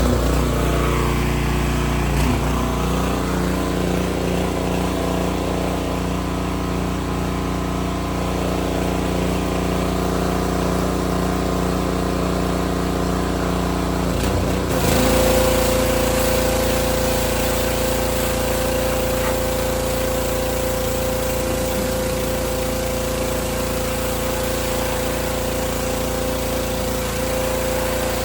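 Gasoline pressure washer engine running steadily under load while spraying. About halfway through the sound shifts: a steady whine comes in and the hiss grows.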